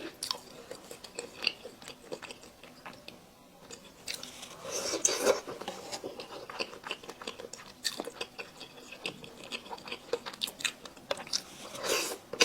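Close-miked mouth sounds of someone biting and chewing braised chicken: wet smacks and small clicks, with louder bites about five seconds in and again near the end.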